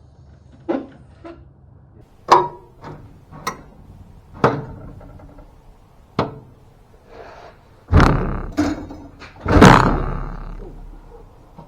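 Sharp knocks and clanks of metal parts and tools during work to lower a car's engine and transaxle. Two heavier bangs come near the end, each trailing off in a low rumble.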